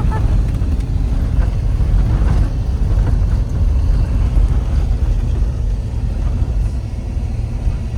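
Car running, a steady low rumble.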